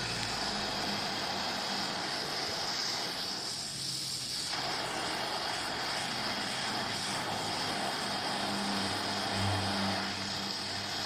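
A gas welding torch flame hissing steadily as it heats a copper pipe joint until it is thoroughly hot for brazing with filler rod. The hiss drops briefly about four seconds in.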